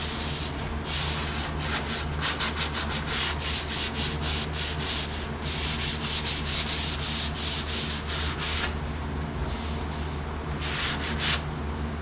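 Hand sanding on the sheet-metal roof of a truck cab: rapid back-and-forth strokes of sandpaper rubbing on metal, several a second, to show up dents and flaws in the panel. The strokes ease off about nine seconds in, then a short run of strokes follows near the end.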